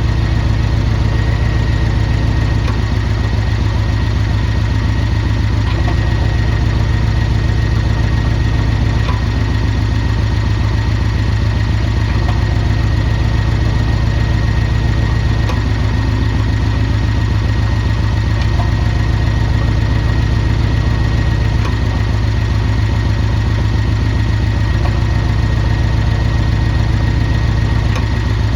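Porsche 718 Cayman S turbocharged flat-four idling steadily, its low note shifting back and forth about every three seconds. The owner puts the sound down to a leaking sport exhaust valve.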